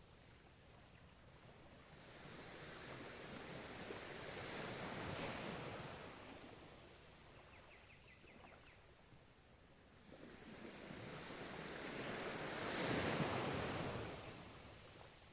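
Ocean waves: one wave of surf swells and washes out, then a second, louder one builds near the end and fades.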